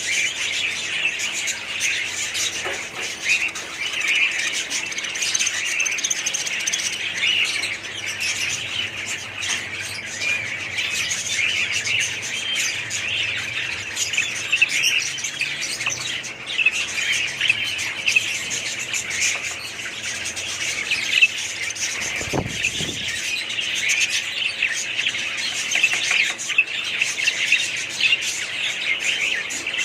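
A flock of small pet parrots chirping and chattering all at once, in a dense, steady stream of overlapping high calls with occasional squawks. There is one brief low bump about three-quarters of the way through.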